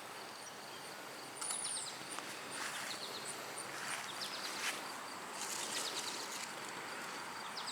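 Outdoor garden ambience: steady background noise with several short bird chirps, one high whistled note about a second and a half in, and a faint, evenly repeating high chirp.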